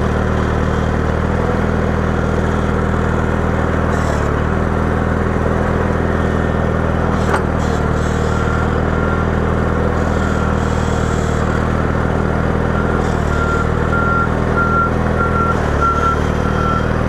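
John Deere 318 garden tractor engine running steadily while plowing, its note dipping briefly now and then under load. A faint, evenly repeating beep comes in over the second half.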